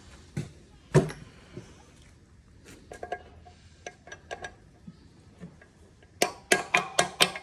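Metal tools and engine parts clinking and knocking as a connecting rod is worked out of a Kohler CV725 engine. A loud knock comes about a second in, then scattered light clinks, then a quick run of about six sharp metallic taps near the end.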